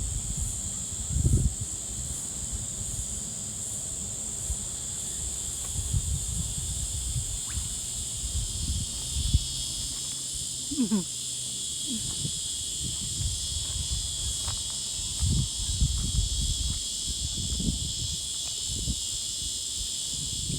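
Steady, high-pitched insect chorus buzzing throughout, with irregular low bumps of wind and handling on the microphone. A short falling sound comes about eleven seconds in.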